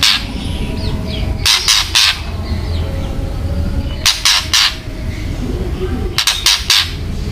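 White-rumped shama giving harsh rattling 'kretekan' calls, in quick clusters of three or four notes about every two seconds, over a steady low hum.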